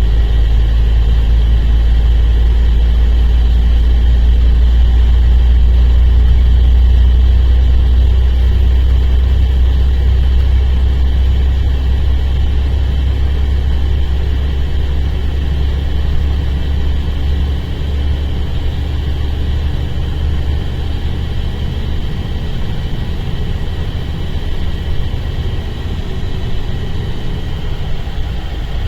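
Mercedes-Benz O-500RSD coach's diesel engine running with a steady deep drone, easing off slightly about halfway through.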